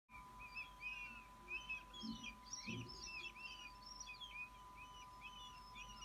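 Bird calls: many short, high chirps in quick succession, overlapping, over a steady electronic whine. There are two soft low thuds about two and three seconds in.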